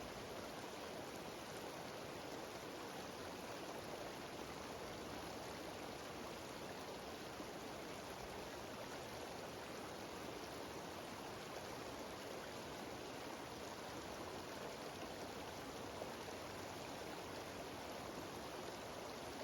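Mountain waterfall cascading down a stream, the water rushing steadily without let-up.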